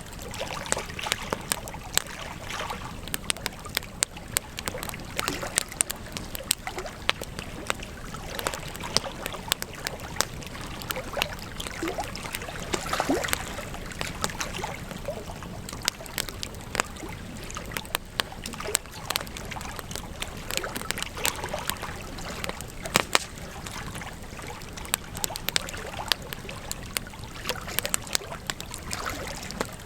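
Wood campfire burning, with irregular crackles and pops over a steady hiss; one sharp pop about three-quarters of the way through is the loudest.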